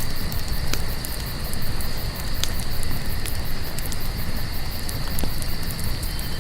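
Crickets chirping steadily over a crackling campfire: a few sharp pops of burning wood stand out against a low, continuous rush of the fire.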